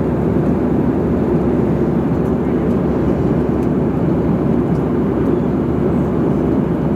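Steady jet airliner cabin noise in flight: an even, unbroken rush of engine and airflow noise, heaviest in the low range.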